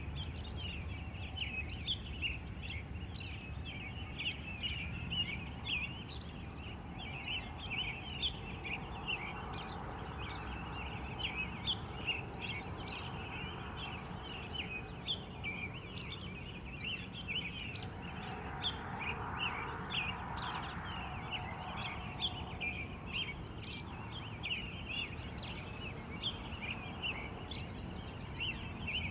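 Morning chorus of many wild birds chirping and singing over one another without a break. Underneath there is a steady high-pitched tone and a low rumble, and a soft rushing swells up twice.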